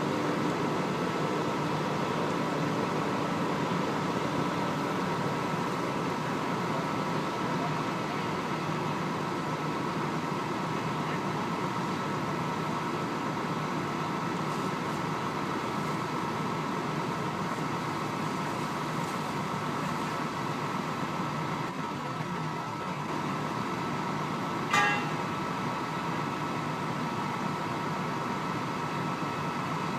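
Steady drone of idling diesel truck engines, with one brief, sharp, high-pitched chirp about five seconds before the end.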